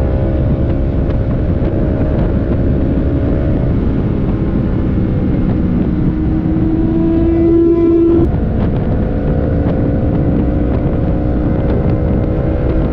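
Motorcycle engine running at speed over wind rushing past the microphone. Its pitch climbs for a couple of seconds and drops suddenly about eight seconds in, as at a gear change.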